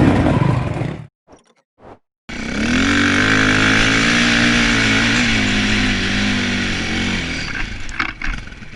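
Hard-enduro dirt bike engine running hard at high revs on a steep climb, cut off by a brief gap about a second in, then running loud again at a fairly steady pitch before fading near the end.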